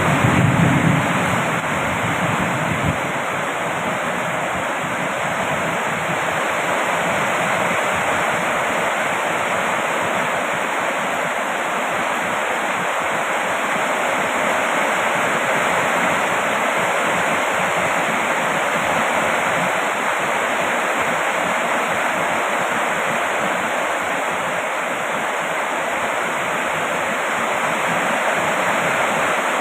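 Heavy rain falling steadily, a dense even hiss with no separate drops standing out. A low rumble lies under it for the first few seconds and then stops.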